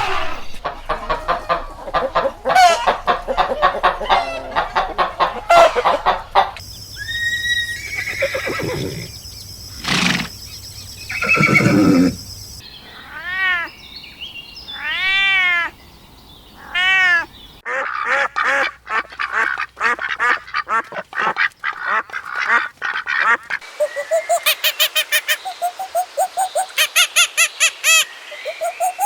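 A run of short farm-animal call clips that changes every few seconds, mostly poultry: quacking and honking calls, with a run of short, repeated, arched calls in the middle and rapid repeated calls near the end.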